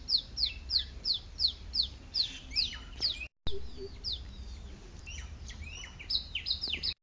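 A bird chirping over and over in a run of quick, high, falling chirps, about three a second. It thins out after a brief dropout in the sound midway, then picks up again near the end.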